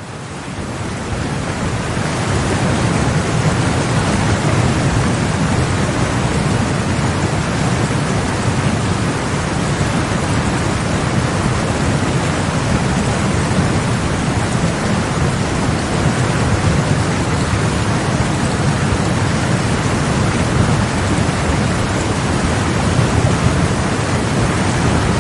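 Waterfall: a loud, steady rush of falling water that fades in over the first couple of seconds.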